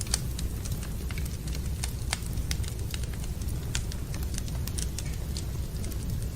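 Wood fire burning in a fireplace: a steady low rumble of the flames with irregular sharp crackles and pops of the burning logs, several a second at times.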